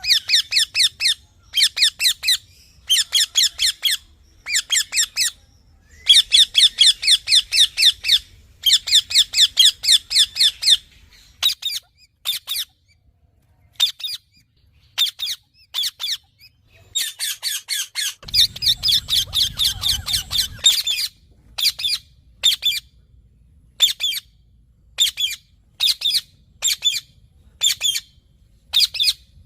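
Rose-ringed (Indian ringneck) parakeet calling: bouts of rapid, high-pitched repeated screeching notes, each bout a second or two long with short gaps between, breaking into shorter separate bursts later on. A low rumble runs under the calls for about two seconds around two-thirds of the way in.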